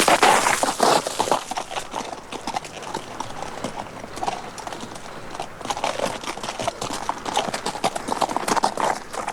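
Horses' hooves clip-clopping, a sound-effects record's horse track, with many quick hoofbeats that are loudest in the first second or two.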